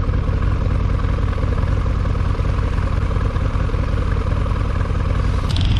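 Harley-Davidson V-Rod's liquid-cooled V-twin engine running at a steady speed, neither revving up nor dropping. A high, rapidly pulsing noise joins it near the end.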